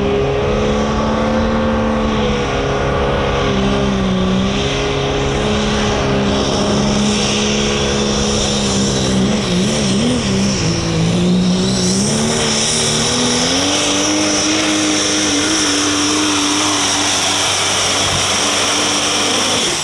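Super stock diesel pulling truck's engine running hard at high revs under load, its pitch wobbling briefly about halfway through, then climbing and holding higher, with a steady high whistle over the engine note.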